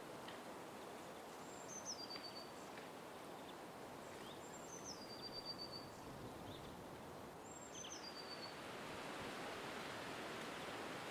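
A small songbird repeats the same short, high phrase three times, about every three seconds: a note that steps down in pitch and ends in a fast, even trill. Behind it runs a steady outdoor hiss that grows louder near the end.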